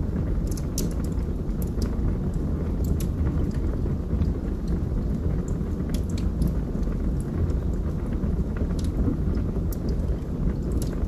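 Log fire burning in a fireplace: a steady low rumble of flames with irregular sharp crackles and pops from the burning logs.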